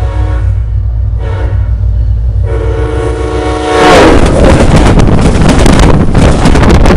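A SunRail commuter train's horn sounds a blast that ends about half a second in, then a short blast, then a longer one as the train approaches. About four seconds in, the train runs over a microphone lying between the rails, and a loud, dense rush of wheels and undercarriage noise with rapid clicks takes over.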